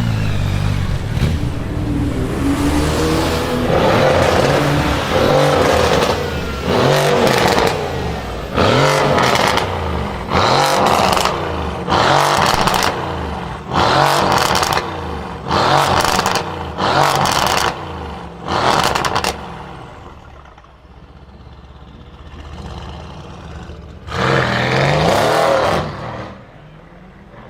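A Mercedes car's loud exhaust as the engine is revved in a quick series of short throttle blips, about one a second, each rising in pitch and dropping back. After a quieter stretch it is revved once more near the end.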